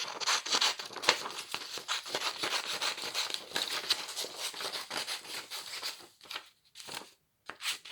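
Scissors cutting paper, with many quick snips and the paper rustling as it is handled. The cutting thins out about six seconds in and goes nearly quiet, with a few more rustles near the end.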